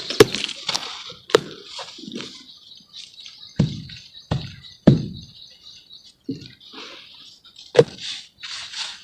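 Charcoal crumbling and breaking apart in water: sharp cracks and snaps over a fizzing crackle, with three dull low thuds around the middle.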